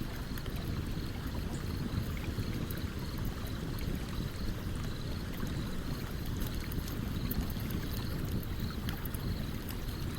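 Campfire crackling with small, frequent sharp pops and ticks over the steady low rush of a stream running nearby.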